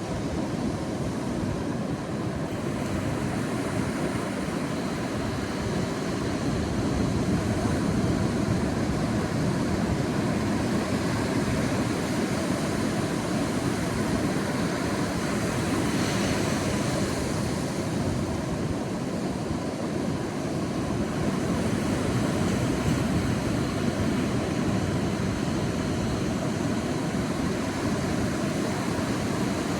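Sea waves washing onto a beach: a continuous rush of surf that swells and eases every several seconds as waves break.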